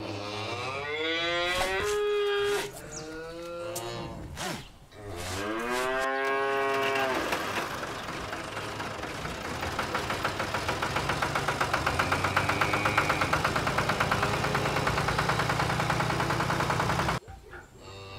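A cow mooing three times in long, drawn-out calls, then a tractor engine running with a fast, even chugging for about ten seconds before it cuts off suddenly near the end.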